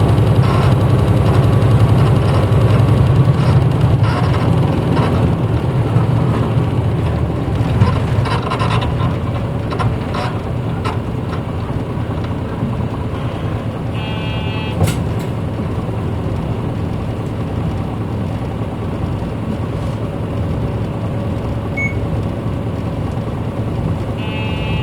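Cabin running sound of a 1994 Hino Blue Ribbon U-HT2MPAA city bus: its diesel engine drones under load for the first several seconds, then eases to a quieter steady running sound. A short electronic chime sounds about midway and again near the end.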